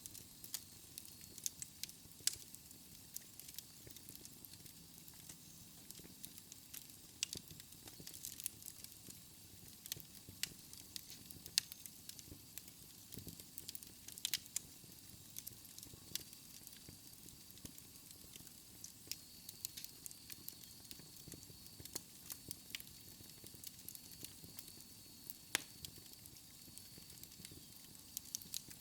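Wood fire burning in a fireplace: a soft steady hiss with frequent irregular crackles and pops of burning logs, a few louder snaps scattered through, and a faint thin high whistle joining about halfway through.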